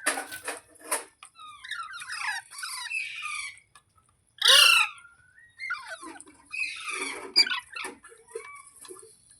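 Ringneck parrot squawking and chattering in a run of short, rising and falling calls, with one loud harsh squawk about halfway through.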